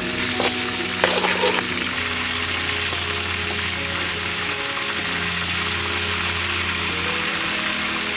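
Chicken drumsticks frying in hot oil in a metal wok: a steady sizzle, with a metal spatula scraping and clinking against the wok in the first couple of seconds.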